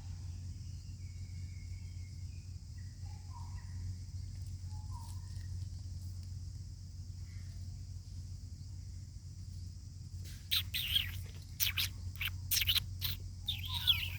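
Outdoor ambience with a steady high insect drone and faint bird chirps. About three-quarters of the way in, a run of loud, short, high-pitched animal calls sets in and lasts nearly to the end.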